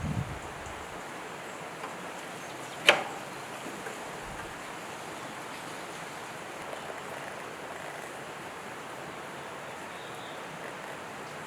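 Steady even hiss with one sharp knock about three seconds in.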